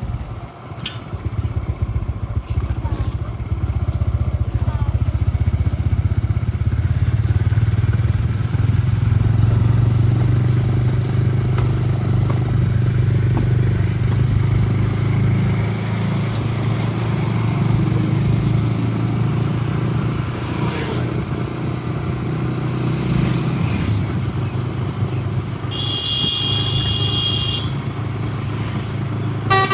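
A motor vehicle's engine running steadily with road noise, and a short high-pitched beep near the end.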